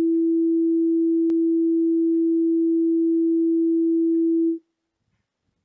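Steady, loud pure sine tone at a fixed mid pitch from a sound-wave demonstration, played at increased amplitude to show that a bigger amplitude gives a louder sound. It cuts off abruptly about four and a half seconds in.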